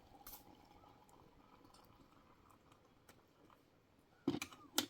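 Faint background, then a few short, sharp clicks near the end.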